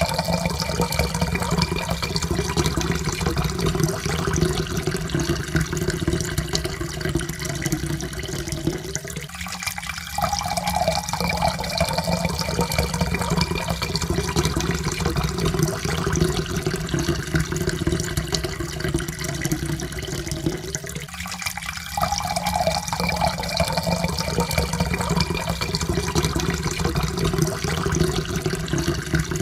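Water pouring steadily into a cup, with a tone in the pour that slowly rises in pitch as the cup fills. The pour breaks off briefly and starts again twice, about 9 and 21 seconds in.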